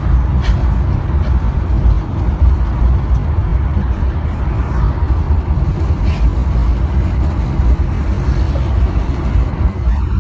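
Steady low rumble of a car driving, engine and road noise as picked up by an in-car dashcam.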